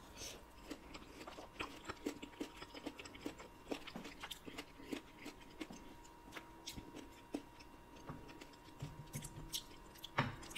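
Close-miked chewing of soft dragon fruit flesh: quiet, irregular wet clicks and mouth smacks.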